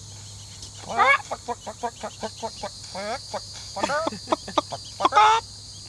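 Chickens making short, soft rising clucks and trills in scattered bursts as they settle to roost. Crickets chirp steadily behind them.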